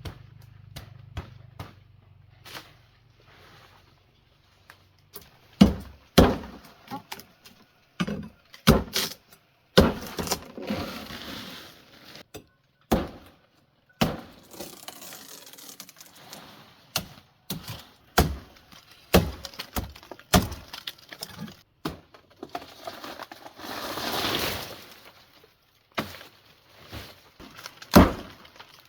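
A long run of irregular knocks and crashes, like hard material being broken or thrown down, with a few longer scraping, rattling stretches between them.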